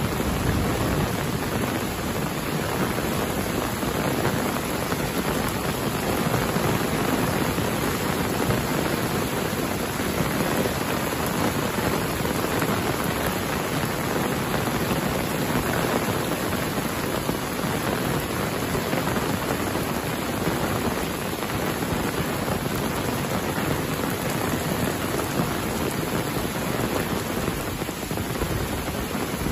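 Heavy rain pouring steadily, an even hiss of rain on leaves and ground.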